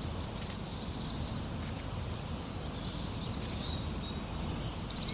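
Small songbirds singing over a steady low outdoor rumble. A short high song phrase comes twice, about three seconds apart, with thin chirps in between.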